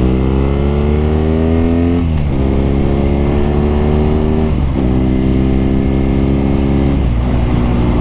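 BMW R nineT's 1170 cc boxer twin accelerating through the gears: the engine note climbs, then drops at each upshift, about two, four and a half and seven seconds in.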